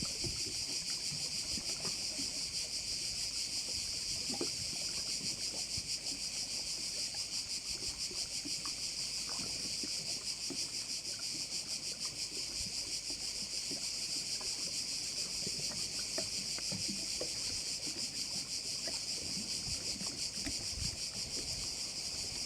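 Dense, unbroken chorus of cicadas, a high rasping drone with a very fast even pulse. Faint scattered low knocks and lapping sit underneath it.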